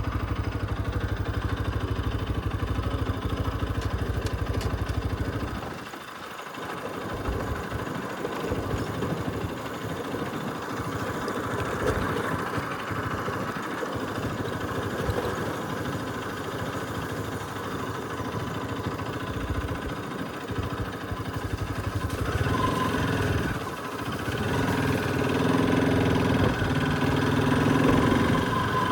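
Bajaj Pulsar RS200's single-cylinder engine running as the motorcycle is ridden. The sound dips briefly about six seconds in, then picks up and gets louder and higher toward the end.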